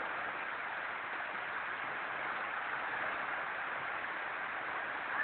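Heavy rain pouring down in a steady hiss, with strong wind.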